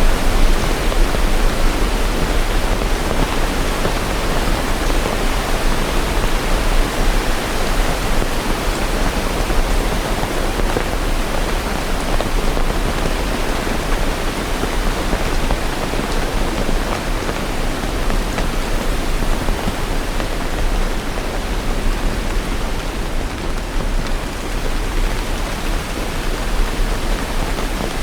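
Steady rain, an even hiss with no single drops or events standing out, over a constant low rumble.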